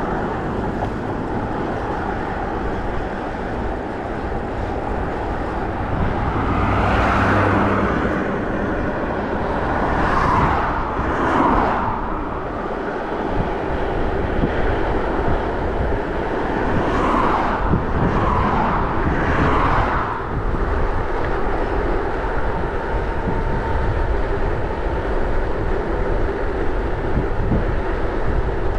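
Steady rushing wind and road noise while riding an electric hybrid bike at speed, with a few louder swells partway through.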